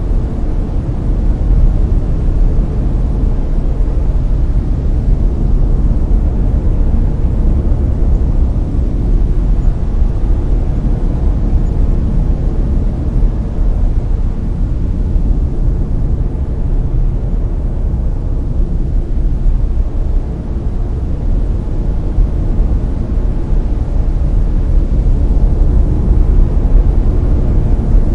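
Steady brown noise: a deep, even rumbling hiss, strongest in the bass and fading toward the highs, with slow slight swells in level.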